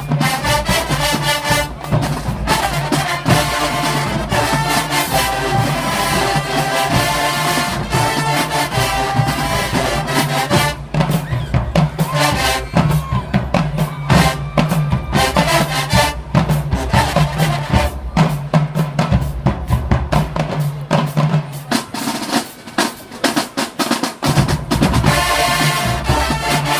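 Marching band playing brass and drums together. About ten seconds in the brass drops away for a drum-line break of snares and bass drums, and the full band comes back in near the end.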